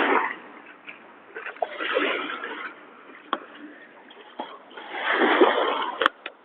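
Waves of the Sea of Azov washing onto the shore. Each wash swells and fades about every three seconds, with a few sharp clicks between them.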